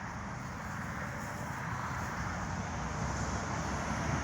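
Steady rush of passing highway traffic, with wind buffeting the microphone, growing a little louder toward the end.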